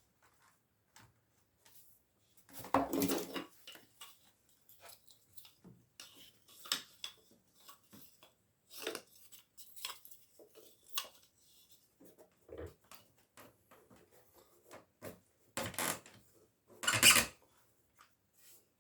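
Scattered knocks, taps and light clattering as a window frame is handled and adjusted in its opening, with the loudest knocks about three seconds in and again near the end.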